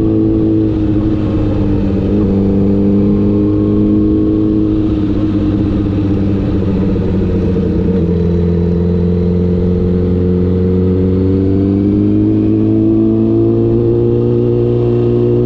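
Honda CBR1000RR's inline-four engine running under way, its pitch easing down over the first half and then climbing gradually as it pulls again.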